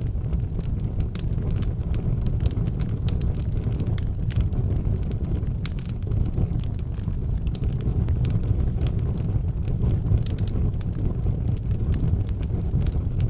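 Wood fire burning in an outdoor fireplace: a steady low rumble of flames with frequent sharp crackles and pops scattered irregularly throughout.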